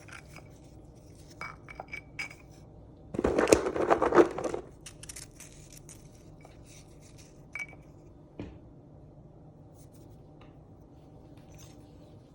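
Small clinks and clicks of a spoon and a small glass dessert dish being handled while a snack is layered, with a louder scraping, rustling stretch of about a second and a half a few seconds in.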